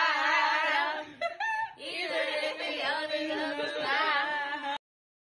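A group of voices singing together. The singing cuts off abruptly near the end.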